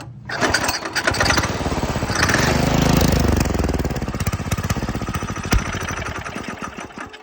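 Go-kart engine with a new 30 mm carburetor catching, revving up, then slowing and dying away, with one sharp pop partway through the run-down. It keeps stalling like this, which the owner takes for it not taking in fuel.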